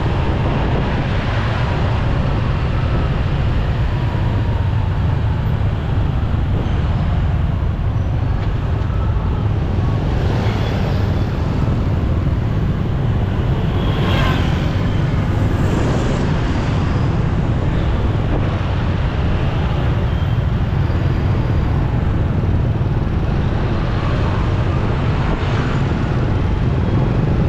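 Riding a motorcycle in city traffic: a steady low engine rumble with road and wind noise, and other vehicles passing, with a few brief higher sounds near the middle.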